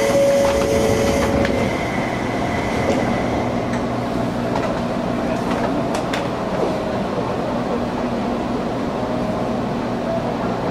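Interior of an Izuhakone Railway 1300-series electric train car. A hiss and a two-note door chime end in the first second and a half as the doors finish closing. Then the train runs with a steady rumble and the strong air conditioning, and a few sharp clanks come from the rattling gangway plates.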